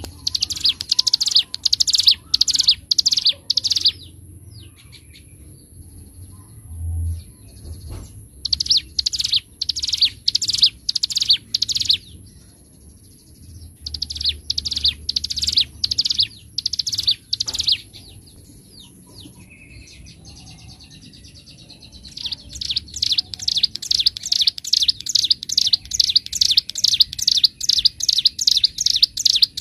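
A ciblek gunung (mountain prinia) sings in fast trills of rapidly repeated high notes: the loud, drilling 'ngebren' song that bird keepers prize. It sings three bursts of about four seconds, then a long unbroken trill from about three-quarters of the way through.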